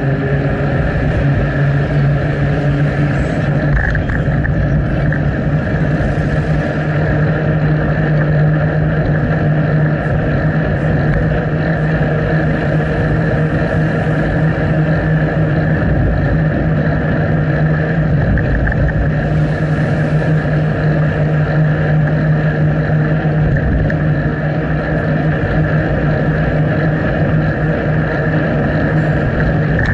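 Steady rushing wind noise on a bike-mounted action camera while riding, with a constant low hum underneath.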